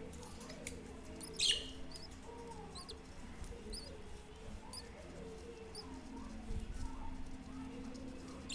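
Small pet birds chirping: short, high chirps scattered every half second or so, with a louder burst of chirping about a second and a half in, over a steady low hum.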